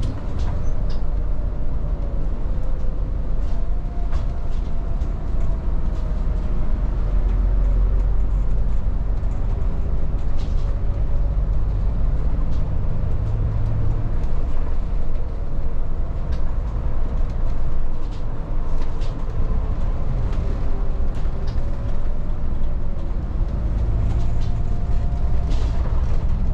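Volvo 8900 city bus driving, heard from inside the cabin: a steady low engine and road rumble whose pitch rises and falls with speed, with scattered light rattles and clicks from the bus body.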